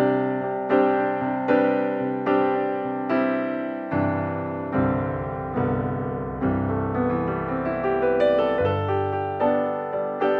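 Background piano music: a gentle melody of struck notes, about two a second, each decaying.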